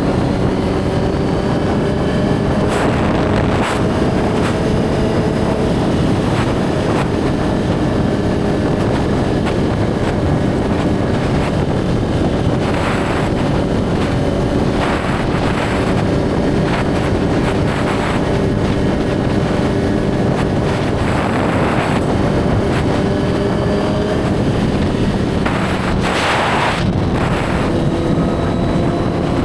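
Suzuki GSX-R1000 inline-four engine running at a steady cruise, its pitch drifting slowly up and down, under constant wind noise on the helmet-mounted microphone.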